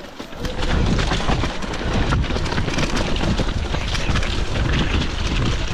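Loud, continuous low rumble of a debris flow (mud and rock avalanche), with many short knocks of rocks striking in the mass.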